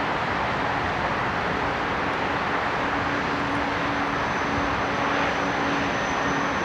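Jet engines of an Airbus A320-200 airliner running, a steady rushing noise with a low hum that comes and goes and a faint high whine that grows stronger near the end.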